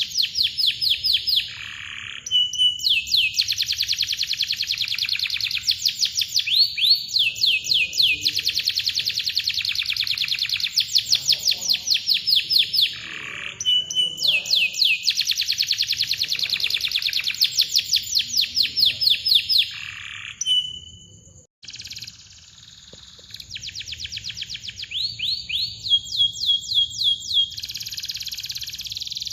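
Domestic canary singing: long, tight rolls of fast repeated chirps, broken now and then by short steady whistled notes. The song drops out briefly about two-thirds of the way through.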